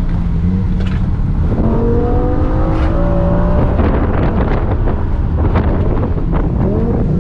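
BMW E60 M5's V10 engine under load, its pitch climbing from about a second and a half in, then a choppy, rough stretch, then climbing again near the end.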